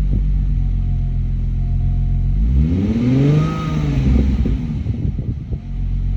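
Infiniti Q50S Hybrid's V6 exhaust idling, then revved once a little over two seconds in, the pitch rising and falling back to idle about three seconds later, with a few short cracks as the revs drop.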